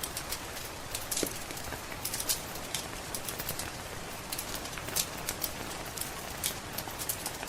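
Steady rain with frequent sharp crackles and pops from a wood fire in a fireplace.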